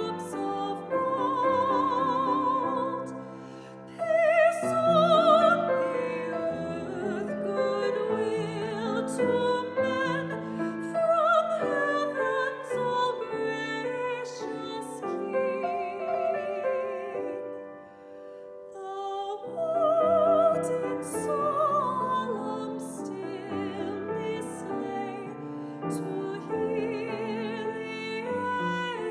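Classical soprano singing with strong vibrato, accompanied by piano. There is a short break in the phrase about eighteen seconds in.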